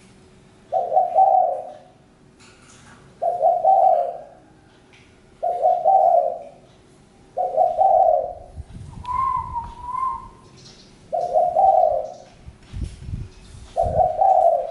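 Spotted dove cooing: six near-identical coo phrases, one about every two seconds. A higher, thinner call comes in the middle, and a few low knocks sound in the second half.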